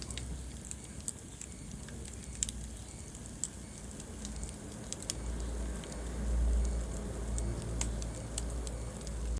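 Wood fire in a fireplace crackling, with irregular sharp pops and snaps over a low rumble of burning flames that swells for a moment just past the middle.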